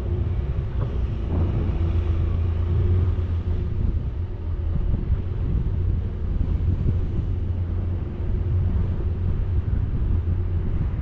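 Vehicle driving on a mountain road: a steady low engine and road rumble, with some wind on the microphone.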